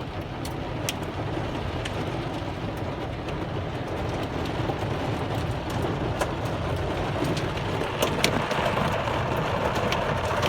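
Heavy rain pelting a vehicle, heard from inside: a steady rush of rain with scattered sharp drop hits, growing a little louder in the second half.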